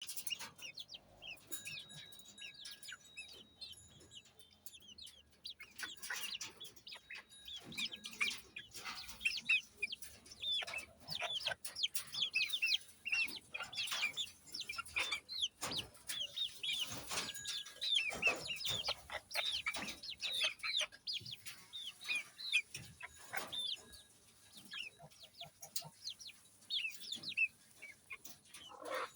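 Young chicks peeping: many short, high-pitched cheeps overlapping in a busy chorus, sparse for the first few seconds and then continuous, with scattered soft knocks.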